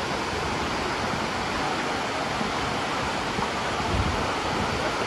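Steady rush of the water of Dunn's River Falls pouring down close by, with a few low thumps about four seconds in.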